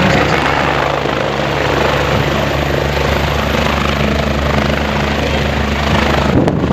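Helicopter running close by: a loud, steady rotor and engine noise, which drops off abruptly near the end.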